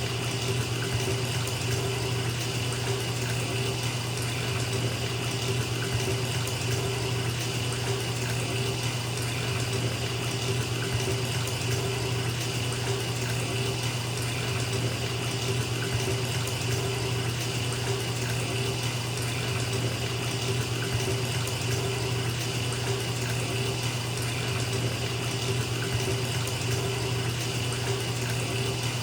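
Bathtub tap running steadily, water pouring into a filling tub, an even unbroken rush.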